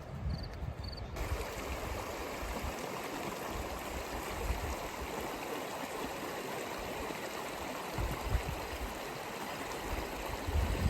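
Steady rush of water that starts abruptly about a second in, with low wind rumble on the microphone at times.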